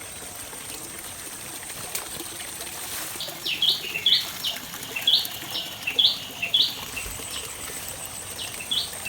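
A bird calling in a quick series of short, sharp chirps, starting about three seconds in, pausing briefly, then starting again near the end, over a steady background hiss.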